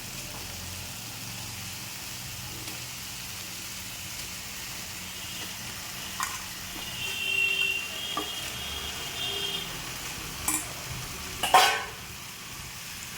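Chicken pieces in spiced onion masala sizzling and frying in oil in a kadai while being stirred. A few clicks of the spoon against the pan come through, the loudest a little before the end.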